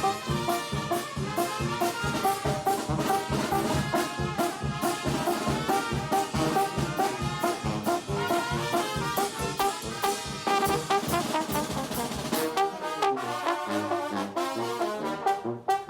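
A Mexican banda playing live: trumpets and trombones carry the melody over a steady pulsing beat. Near the end the low beat drops away and the horns play on alone.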